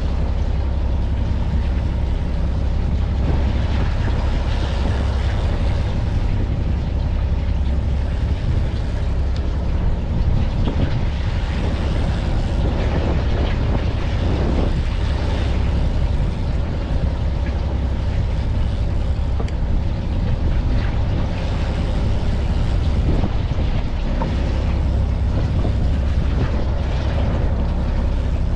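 Fishing boat's engine running steadily under a low rumble, with wind and water noise over it.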